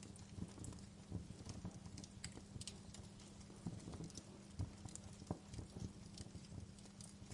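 Wood fire burning, with irregular crackles and pops over a low steady hum.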